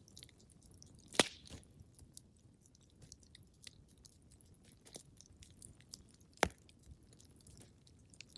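Wood fire crackling in a fireplace: scattered small crackles over a low steady hiss, with two louder pops, one about a second in and one about six seconds in.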